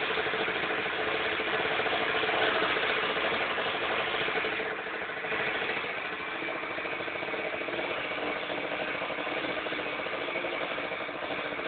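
Keeway Hurricane scooter engine running, a little faster for the first few seconds, then settling to a steady idle about five seconds in.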